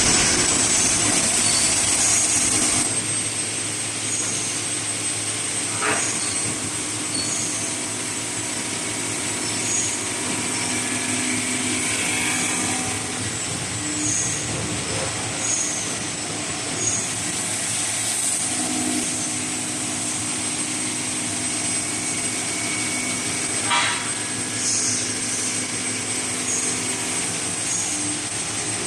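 4-axis CNC single-side grinding machine running: a steady mechanical hiss with a thin high whine and a low hum, broken by a sharp click about six seconds in and another near the 24-second mark.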